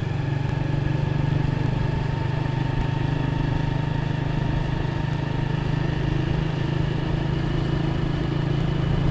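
Honda motorcycle engine running steadily while the bike is ridden at an even cruising speed.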